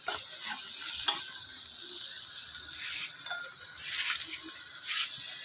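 Tomatoes and green chillies sizzling in hot oil with browned onions in a metal karahi, stirred with a steel ladle that scrapes and clinks against the pan a few times, the loudest clink about a second in.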